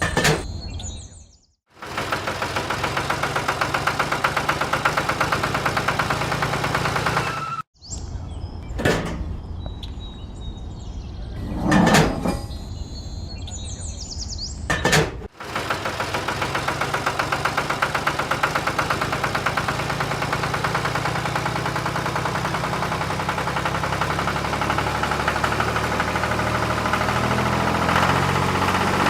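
A small motor running steadily with a fast, even chatter, in several clips cut together, with a few brief louder noises in between.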